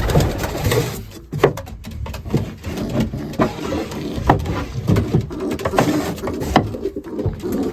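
Irregular knocks, clicks and rattles of loft doors and fittings being handled, as the breeders' compartments are unlocked and opened.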